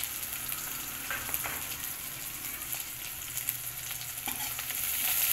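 Shallots, dried red chillies and curry leaves frying in hot oil in a kadai: a steady sizzle with scattered small crackles.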